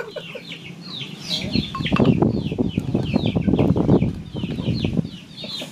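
Birds chirping over and over, short high chirps that fall in pitch, several a second. From about one and a half seconds in to about five seconds a louder rustling, crackling noise covers them.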